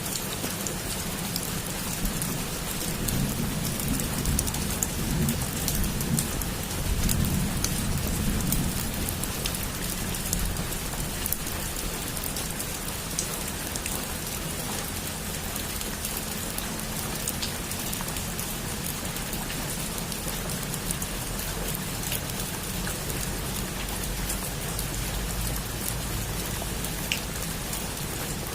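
Heavy rain falling on a roof: a steady hiss with individual drops ticking through it. A low rumble swells and fades between about three and nine seconds in.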